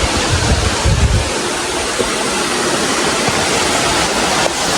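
Loud, steady rushing noise like running water, with low rumbling surges in the first second or so.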